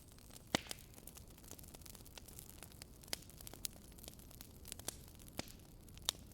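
Wood fire burning in a fireplace: a low steady hiss with scattered sharp crackles and pops, the loudest about half a second in, near three seconds and twice near the end.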